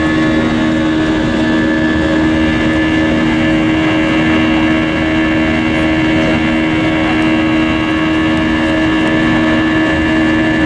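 Steady engine noise from an Airbus A320-232's IAE V2500 engines as heard inside the passenger cabin. It is a constant rush with several steady hums and a higher whine.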